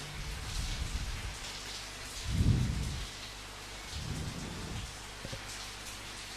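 Steady rain falling, with low rumbles of thunder that swell and fade, the loudest about two and a half seconds in.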